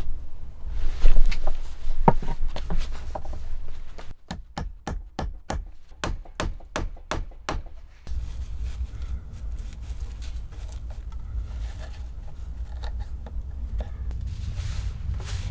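Sharp knocks, a run of about a dozen at roughly three a second in the middle, between scattered handling thuds and scrapes. A low steady rumble of storm wind lies underneath, except during the run of knocks.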